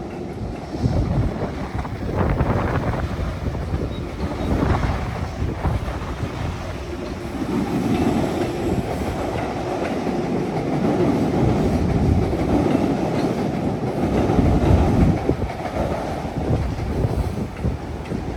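A train running on nearby active tracks: a steady rumble with wheel clatter that builds through the middle and eases a little near the end.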